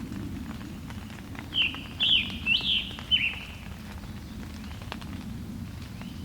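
A songbird sings one short phrase of four slurred notes, starting about one and a half seconds in.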